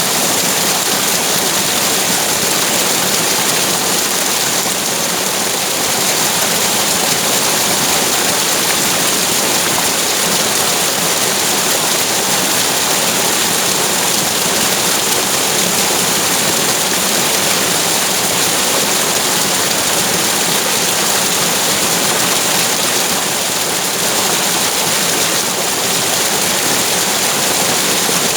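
Flowing water rushing steadily, a continuous even hiss of running water without breaks.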